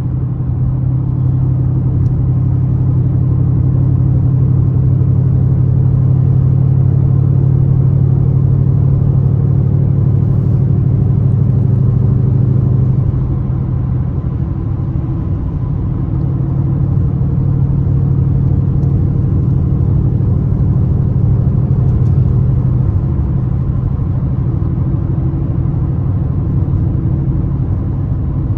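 Ford Mustang GT's V8 engine running steadily under light load while driving, a low rumble that eases off a little about halfway through.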